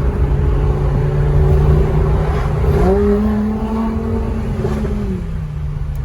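Lamborghini Huracán Performante's V10 engine running under way, heard from inside the cabin. About three seconds in the revs rise quickly and hold higher for a couple of seconds, then drop back down.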